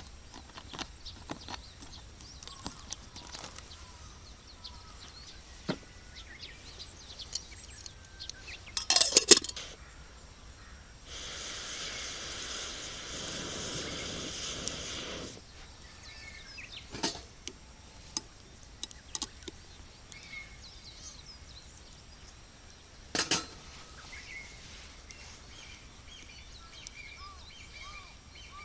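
Wood campfire crackling with scattered sharp pops, a loud burst of pops about nine seconds in and another sharp pop later on. A steady rushing hiss runs for about four seconds in the middle and stops suddenly, and a bird chirps near the end.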